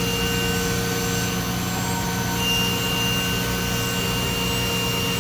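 DMG Mori DMC 1035V vertical machining center running its cutting cycle, spindle turning at about 10,200 rpm with high-pressure coolant fed through the spindle. It is a steady hum and hiss carrying several held tones.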